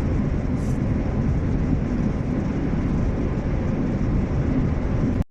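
Steady low rumble of a moving vehicle, the sound of engine and road noise, cutting out for an instant near the end.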